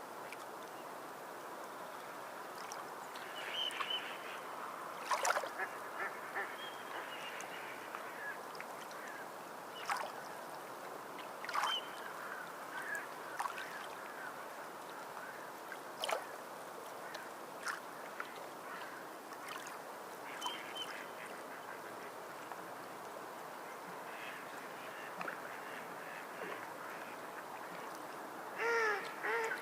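Ducks quacking on and off over a steady wash of water, with a few sharp clicks; a burst of quacks comes near the end.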